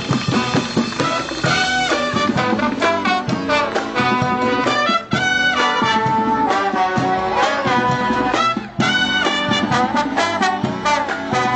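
A college brass band playing a lively tune, horns to the fore, with many quick notes and two very short breaks.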